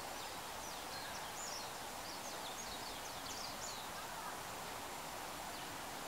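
A rapid series of faint, high, thin chirps from small birds, lasting about three and a half seconds and ending a little past the middle, over steady outdoor background noise.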